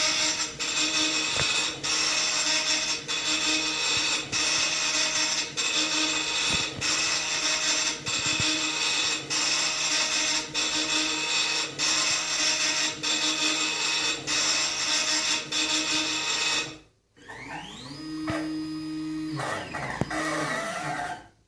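Mirtels 60×120 engraving machine running an engraving pass: a steady mechanical buzz of several tones with a regular tick about every two-thirds of a second as the head works line by line. It stops about 17 s in. The drive motors then whine up in pitch, hold, and wind down again as the head travels, stopping near the end.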